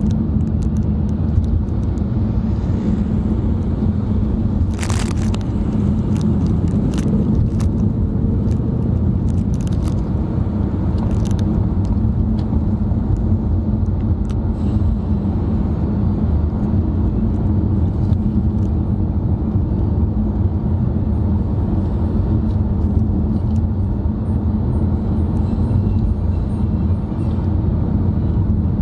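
Steady road and engine noise inside a moving car's cabin, a low rumble with a few short clicks, the loudest about five seconds in.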